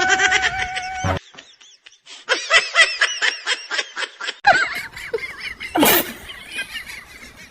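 High-pitched laughter in rapid bursts, after a held high-pitched cry that cuts off about a second in; a sharp noise near the end.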